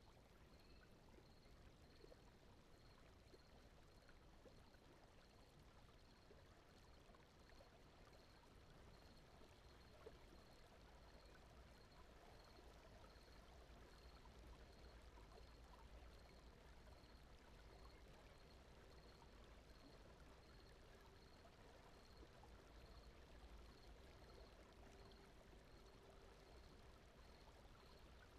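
Faint, steady brown noise, with a faint high chirp repeating about one and a half times a second.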